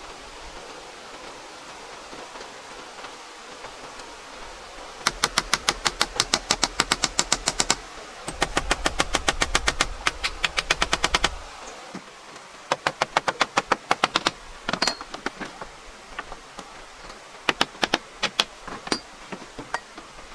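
A building tool striking wood, with two bursts of rapid, evenly spaced sharp impacts at about seven a second and a low hum under each burst. Later come shorter, irregular runs of knocks.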